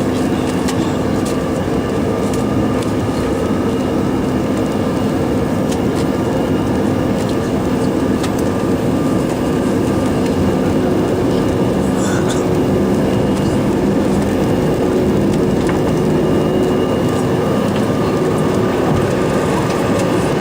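Cabin noise in a Bombardier CRJ-700 at takeoff power: its two rear-mounted turbofans and rushing air make a steady loud roar with a low hum in it, and a few light rattles come through over it.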